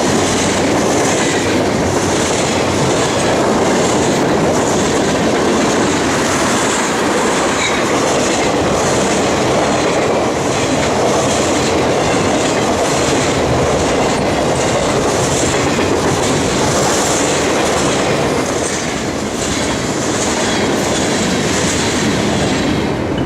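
A train's cars rolling past at close range: a steady, loud rumble of steel wheels on rail with a regular clickety-clack as the wheel sets pass over the track.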